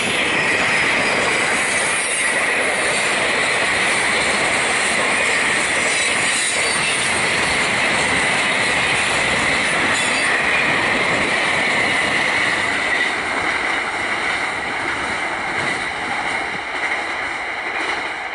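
A long freight train of box cars, gondolas and container flats rolling past, its wheels giving a steady high-pitched squeal over the rumble. The sound thins and drops off over the last few seconds as the tail of the train goes by.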